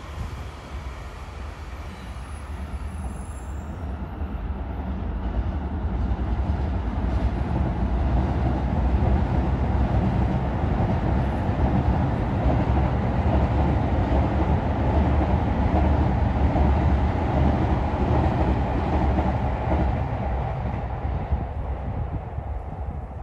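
A JR electric commuter train passing on an elevated viaduct: a steady rumble of wheels on rails that swells over several seconds, holds loud, then fades near the end.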